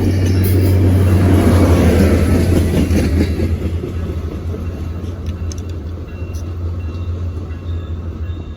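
A diesel-hauled passenger train going by with a heavy low engine rumble. It is loudest about two seconds in, then slowly fades as it moves away.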